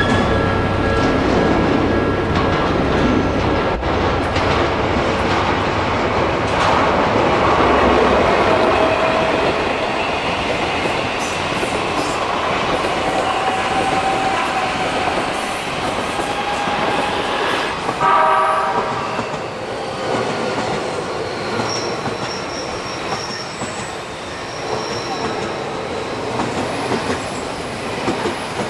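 Odakyu electric commuter trains passing a level crossing, with wheels rumbling and clicking over the rail joints. A level-crossing alarm rings over the start, and a short horn blast sounds about 18 seconds in.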